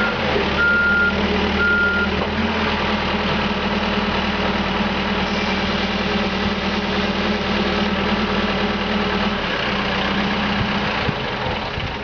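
CAT 420E backhoe loader's diesel engine running steadily. Its reverse alarm beeps twice in the first two seconds, then stops.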